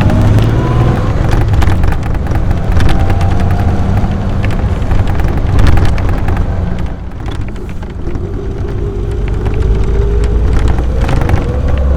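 AC Buckland's 2-litre straight-six engine pulling the car along, heard from on board over road and wind noise. The engine note eases off about seven seconds in, then climbs steadily as the car accelerates again.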